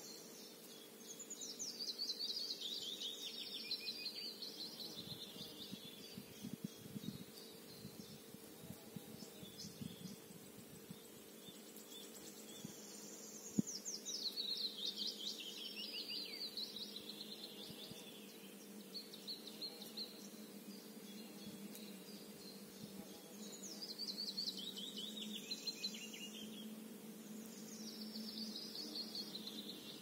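A songbird singing a short phrase again and again, a quick run of high notes falling in pitch, lasting about three seconds and repeated roughly every ten seconds.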